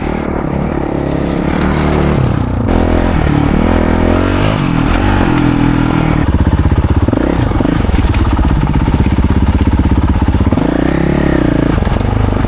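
Dirt bike engine running hard, its pitch rising and falling as the throttle is worked on a muddy track.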